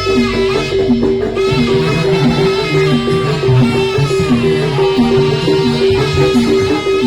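Jaranan gamelan music: a fast, steady, repeating pattern of two pitched gong-chime notes with drumming beneath and a wavering melody line above.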